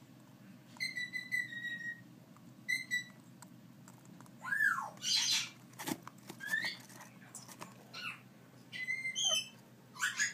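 African grey parrot chicks whistling and chirping: a string of short calls, some held at one pitch and others sliding up or down, with a single sharp click about six seconds in.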